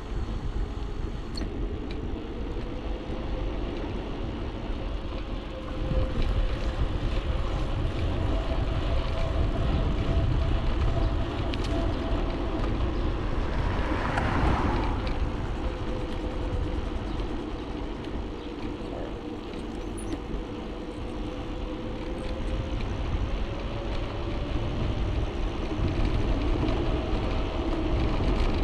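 Ancheer e-bike's electric motor whining at a steady pitch that drifts slightly up and down with speed, over wind rumble on the microphone. A brief louder rush of noise comes about halfway through.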